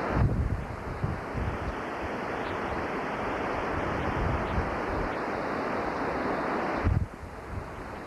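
Hurricane wind and driving rain making a steady rushing noise, with gusts buffeting the microphone. The noise drops suddenly about seven seconds in.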